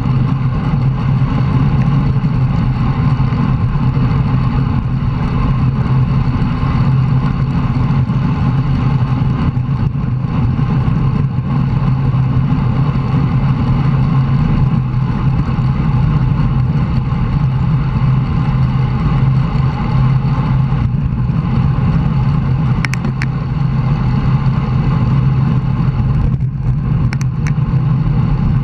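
Steady, loud wind and road rumble on a bicycle-mounted camera's microphone while riding in a group, with a few sharp clicks near the end.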